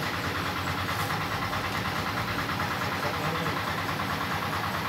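Air compressor running steadily, with a fast, even pulse, supplying the spray gun during clear-coat painting.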